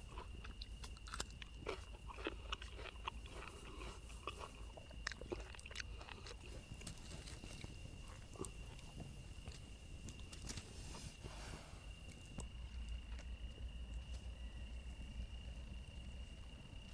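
Chewing and biting with irregular crunching clicks, dense at first and thinning out after about six seconds.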